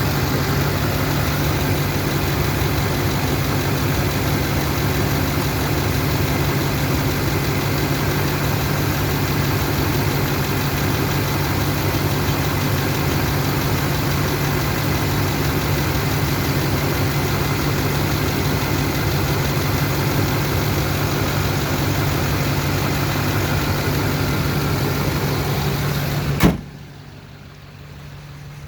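GM LMM Duramax 6.6 L V8 turbo-diesel running steadily at idle, which the owner takes for a misfire on cylinder 7 with crankcase blowby. Near the end a sharp click, then the sound drops suddenly to a much lower level.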